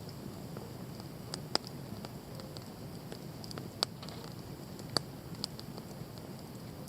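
Wood campfire crackling: a steady low rush of burning with scattered faint ticks and three sharp pops, about a second and a half, four and five seconds in.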